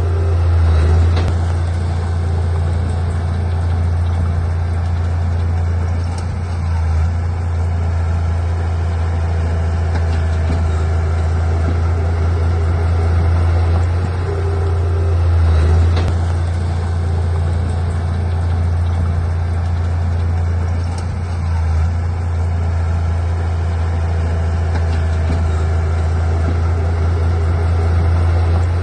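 Diesel engine of heavy earthmoving machinery running steadily with a deep, even drone, swelling slightly a few times.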